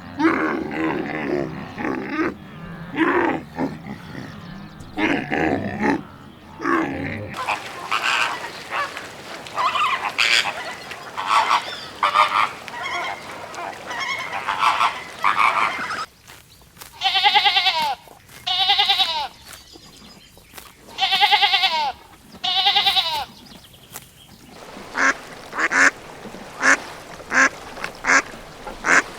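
Farm fowl calling: a run of short calls, with four loud pitched calls in the middle of the stretch, then more short calls near the end.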